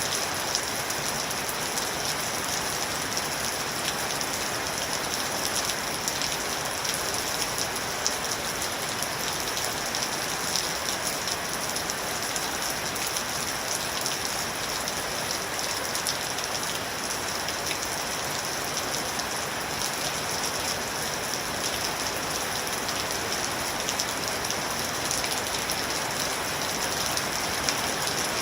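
Steady rain with fine drop patter falling on a surface, an even hiss that carries most in the high range and never changes in strength.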